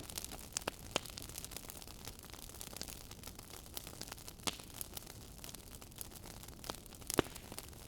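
Fire crackling in a fireplace: a steady soft hiss with irregular sharp pops and snaps, the loudest pop about seven seconds in.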